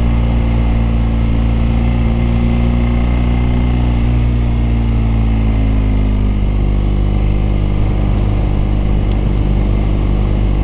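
BMW R nineT's boxer-twin engine and exhaust running steadily under way at a cruising speed, its pitch easing off a little about halfway through.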